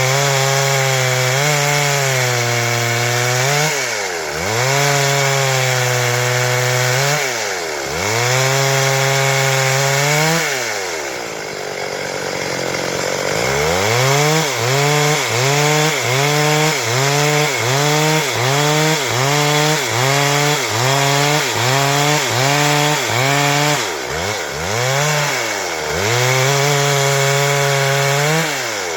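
Stihl MS 382 two-stroke chainsaw running at high revs and cutting wood. Its engine pitch sags and recovers, slowly a few times at first, then in quick regular dips about one and a half times a second for several seconds.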